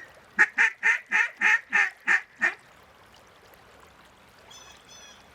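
Hand-blown duck call giving a series of about eight loud quacks, spaced out and trailing off, as hunters call to ducks circling overhead. Two faint, short, high calls follow near the end.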